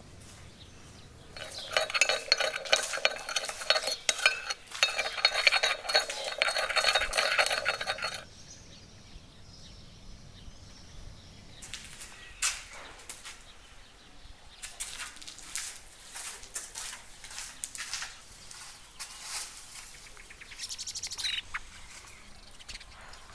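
Metal kitchen utensils stirring and scraping in a ringing metal pot for several seconds, then scattered lighter clinks and taps. Birds call in the background.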